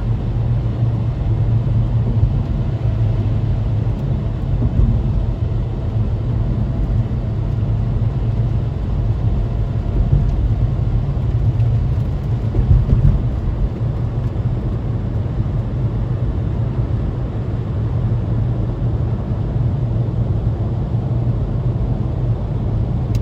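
Low, steady road and engine noise heard from inside the cabin of a moving car.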